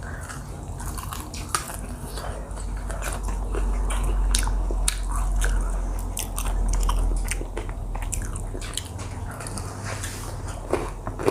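A person biting and chewing crispy fried chicken and french fries close to the microphone, with irregular crisp crunches between steady chewing.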